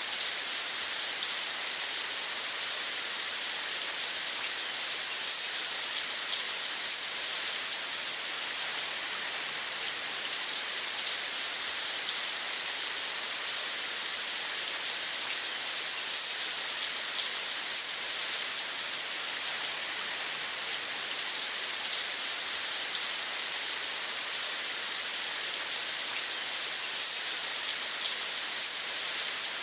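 Steady rain: an even, unchanging hiss sprinkled with fine ticks of drops.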